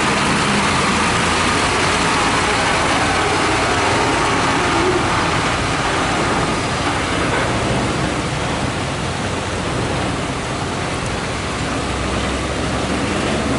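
Heavy diesel truck engine running steadily, mixed with a loud, even rushing noise.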